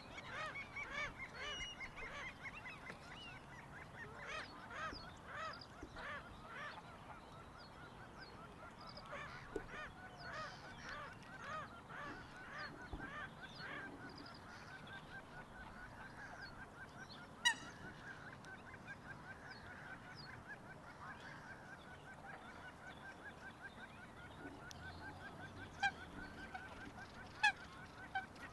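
A flock of geese honking, many overlapping calls in a continuous chatter. A few short sharp clicks stand out, the loudest about two-thirds of the way through and several more near the end.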